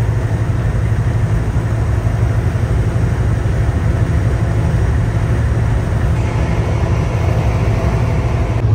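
Kenworth W900L semi truck's Cummins X15 diesel engine running with a steady low drone.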